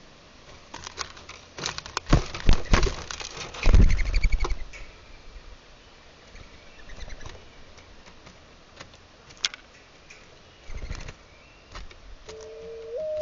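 A burst of knocks, clatters and rustling, loudest about two and four seconds in, followed by a few scattered clicks. Near the end a mourning dove starts cooing, a low call that rises in pitch on its second note.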